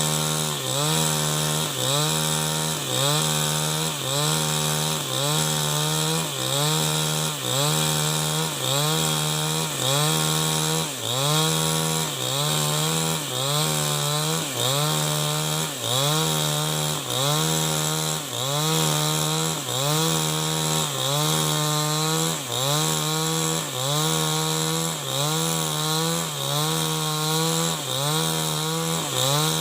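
New West 788 chainsaw running hard under load, cutting lengthwise through a log. Its engine note dips and recovers about once a second as the chain bites.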